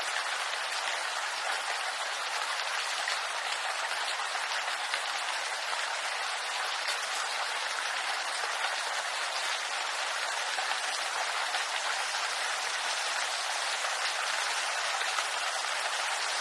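Steady rain falling on bamboo leaves: an even, unbroken hiss of many small drops.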